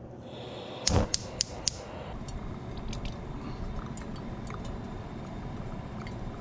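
Kitchen clatter: a quick run of four sharp clicks or knocks about a second in, then a steady low hiss with scattered light clicks.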